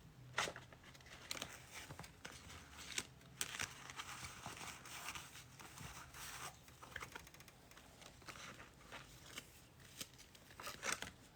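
Trading cards and their wrappers being handled: crinkling and rustling with scattered sharp clicks and snaps, as the pulled cards are gathered and sorted.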